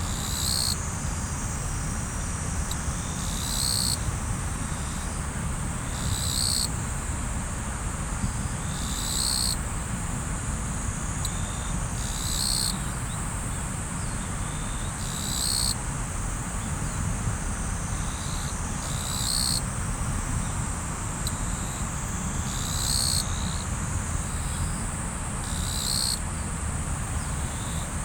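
Steady rushing of river water, with a continuous high insect trill above it. A short high-pitched call repeats about every three seconds.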